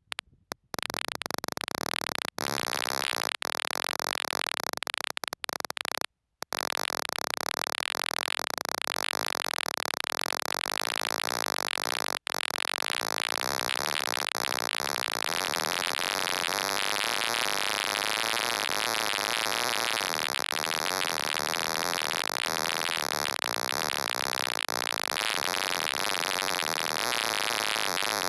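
Steady electronic hiss like static, cutting out abruptly several times in the first few seconds, then running on unbroken.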